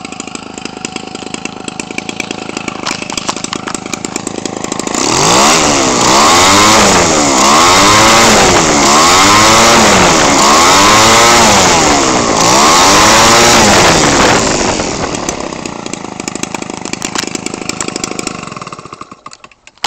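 Homelite 25cc two-stroke engine, converted from a string trimmer for RC aircraft, idling. About five seconds in it revs up to high throttle, with its pitch dipping and climbing again several times. It drops back to idle about fourteen seconds in and cuts off near the end.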